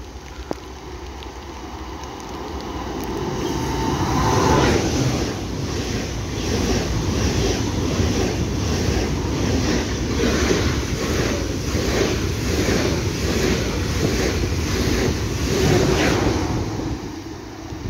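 ICE high-speed train passing through at speed. A rush of noise builds over the first few seconds, then the coaches go by with a steady rhythm of wheel beats, about two a second, until it fades near the end.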